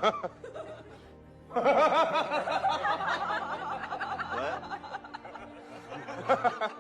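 Laughter with background music, the laughing starting about a second and a half in and trailing off near the end.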